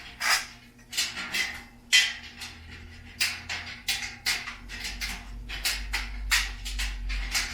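Steel shelf parts clinking and knocking together as the pieces are handled and fitted into the frame: about a dozen irregular short metallic clanks, some ringing briefly, over a steady low hum.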